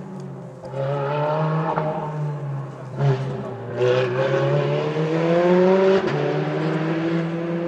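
Lancia New Stratos's Ferrari-derived 4.3-litre V8 accelerating hard on a night rally stage. The engine pitch climbs and then falls back sharply at upshifts, about three and six seconds in.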